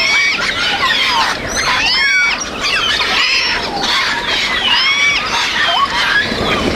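Parrots calling: a dense run of short, harsh calls that rise and fall in pitch, several birds overlapping.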